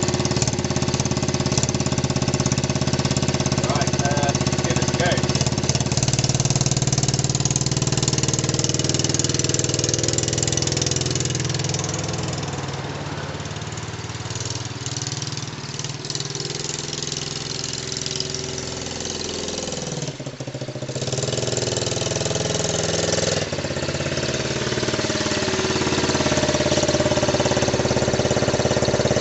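Dirt bike engine running after a cold start, idling smoothly without hunting now that its carburettor has been cleaned. About halfway through it gets quieter and its pitch rises and falls for several seconds, then it settles back to a steady idle.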